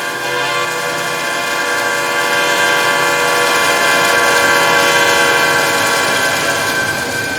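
Air horn of a Union Pacific diesel locomotive sounding one long, steady chord that swells a little in the middle, over the rumble of the moving train.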